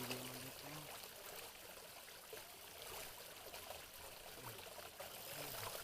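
Water trickling and pouring steadily, like a small inflow running into a pond.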